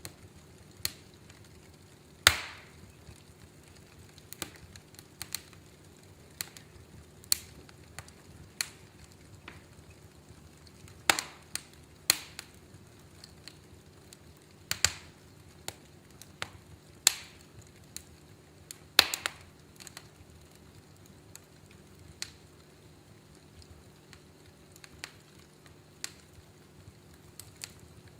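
Wood fire crackling in a fireplace: irregular sharp pops and snaps, several loud ones a second or more apart among many small ticks.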